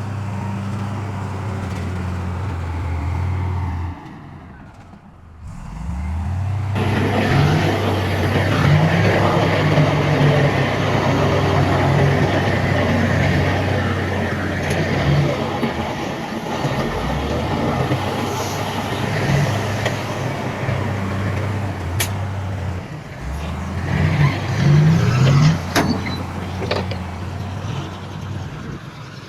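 Diesel engines of heavy earthmoving machinery (dump trucks and a bulldozer) running. A steady engine hum dips briefly about four seconds in, then comes back louder with a noisy haze over it. A few sharp clicks sound near the end.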